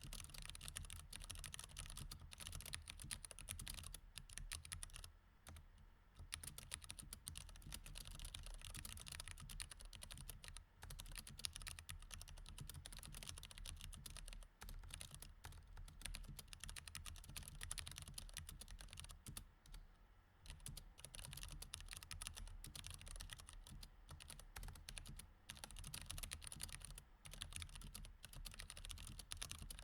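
Steady, fast typing on a mechanical keyboard with Cherry MX Red switches: a dense run of quick keystroke clicks and clacks, broken by a few short pauses.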